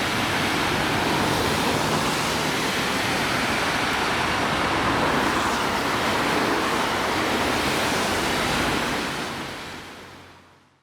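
Torrential rain making a steady, dense hiss, fading out about nine seconds in.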